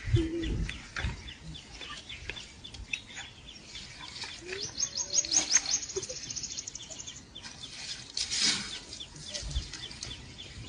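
Birds chirping and calling, with a fast trill of repeated high notes from about four and a half to seven seconds in. A brief low sound right at the start.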